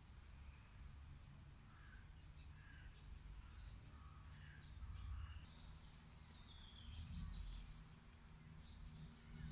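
Faint outdoor birdsong: scattered short chirps and calls from small birds, with a falling whistled note about six seconds in, over a low steady rumble.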